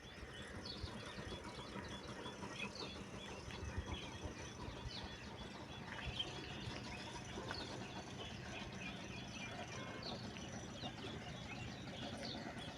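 Many short bird chirps scattered throughout, over a steady low background rumble.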